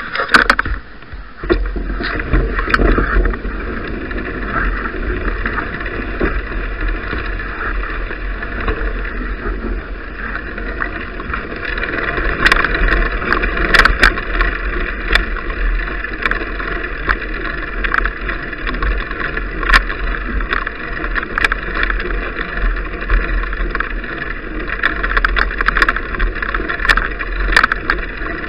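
Riding noise from a bicycle heard through an action camera's microphone: a steady rumble of wind and tyre noise, with frequent sharp clicks and knocks from bumps and rattles of the bike and camera mount.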